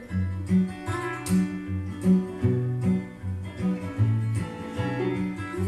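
Acoustic guitar playing a steady picked accompaniment of alternating bass notes and chords, between sung lines of a folk song.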